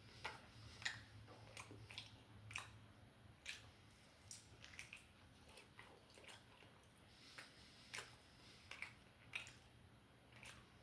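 A person chewing and biting food, with irregular soft mouth smacks and clicks.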